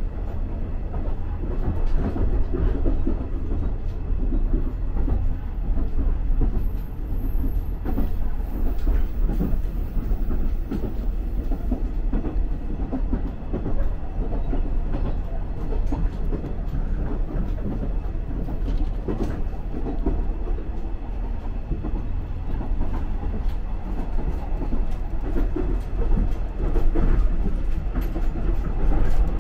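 Inside a moving diesel railcar: a steady low rumble from the train running, with irregular clickety-clack of the wheels over the rails.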